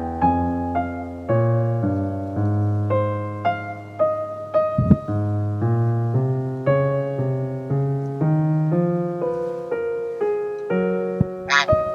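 Soft background piano music, a slow melody of sustained notes. A brief low thump comes about five seconds in, and a short sharp sound comes near the end.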